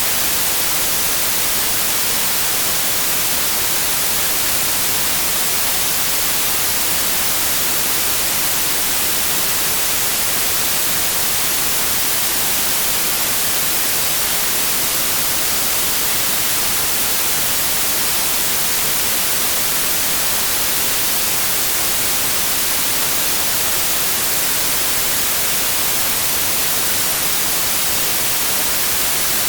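Steady synthetic white noise: an even, unchanging hiss across all pitches, brightest in the highs.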